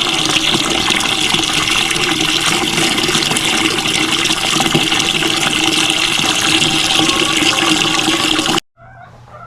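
Water running steadily and hard into a homemade chicken-waterer bucket as it is filled, cutting off abruptly near the end.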